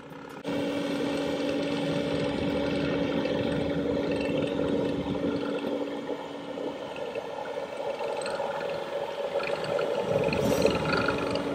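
Skid steer engine running under load, with its hydraulically driven rotor head attachment working rocky soil: a steady drone with a dense rough noise beneath it. It steps up sharply in level about half a second in and stays loud.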